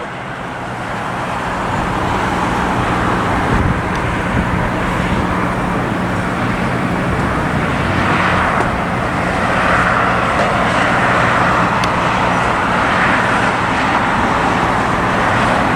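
Steady outdoor roar of jet aircraft and road traffic with a low hum underneath, growing louder over the first few seconds and then holding.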